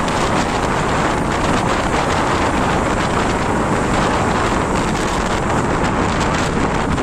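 Steady wind rush on a motorcycle rider's microphone while riding, with the bike's engine and road noise under it.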